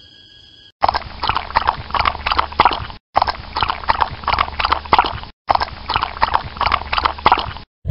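A dog lapping water from a plastic bowl in quick, even laps, about three a second, in three stretches with brief breaks between them.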